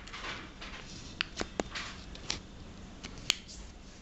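A square sheet of paper being folded and creased by hand: soft rustling broken by several sharp, crisp clicks, the loudest about three seconds in.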